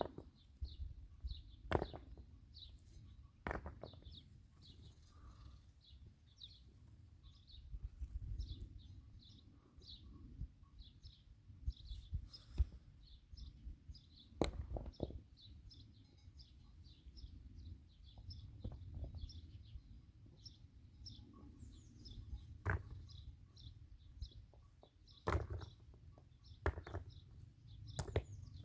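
Small birds chirping continually in quick short notes, with a few sharp knocks and thuds now and then.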